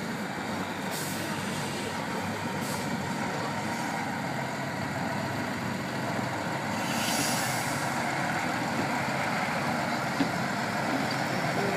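Heavy off-road trial truck's engine running steadily, with a brief hiss about seven seconds in.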